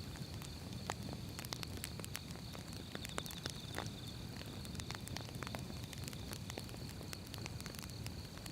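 Wood fire burning: logs crackling with irregular sharp pops over a low, steady rumble of the flames. A faint steady high-pitched tone runs behind it, briefly pulsing rapidly about three seconds in.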